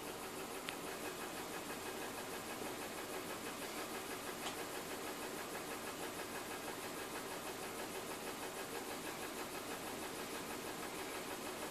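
BMW M52TU B20 inline-six idling steadily with an even, rhythmic pulsing unevenness: cylinder 6 is misfiring.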